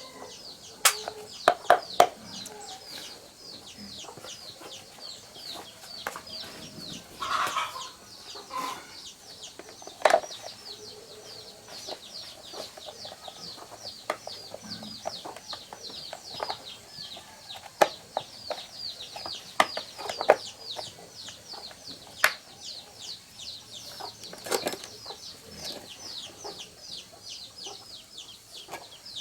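Sharp clicks and knocks at irregular intervals over a steady high-pitched chirping, repeated about three times a second. A short clucking call comes about seven seconds in.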